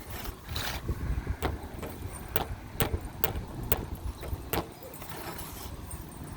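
A series of sharp, irregular clicks and taps from small objects being handled.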